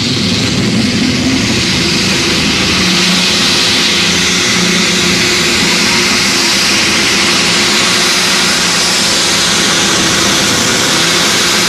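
A high-horsepower pulling vehicle's engine running at full power down the track: loud and steady, with a strong hissing top end and a faint held tone underneath.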